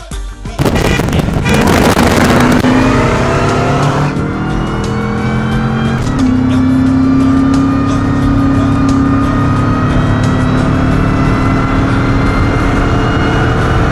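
Supercharged Ford SVT V8 at wide-open throttle in a pull, starting abruptly about half a second in. The engine's pitch climbs and drops back about 4 and 6 seconds in as it shifts gears, then holds a steady high drone to the end.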